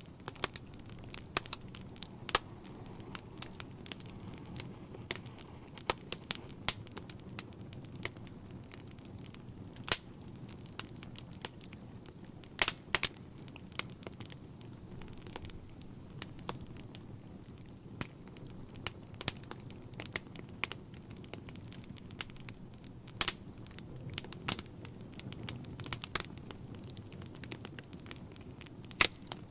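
Wood fire crackling in a fireplace: irregular sharp pops and snaps over a low steady rush of the flames.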